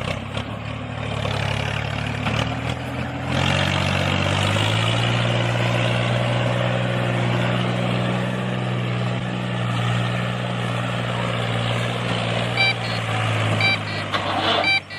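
A heavy vehicle's engine running steadily, rising to a higher, steady speed about four seconds in. Short reversing beeps, about one a second, start near the end.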